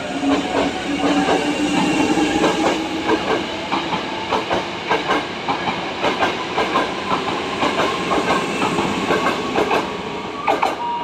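Hankyu 7000- and 8000-series electric train running past the platform, its wheels clacking over the rail joints several times a second over a steady whine. The sound fades a little toward the end as the last car goes by.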